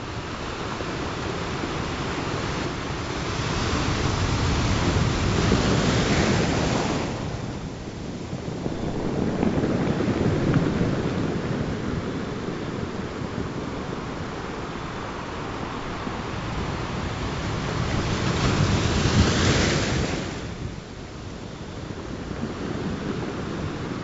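Ocean surf: waves rolling in and breaking in a steady wash, swelling into louder crashes about five, ten and nineteen seconds in.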